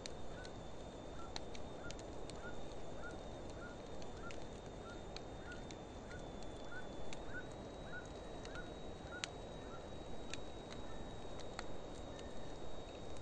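Driftwood and dry hardwood campfire burning with a steady hiss and scattered sharp crackles and pops. A small animal call repeats about twice a second and stops about ten seconds in.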